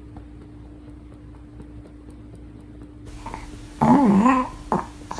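A single loud, voiced burp about four seconds in, answering the request for a big burp, over a steady low hum.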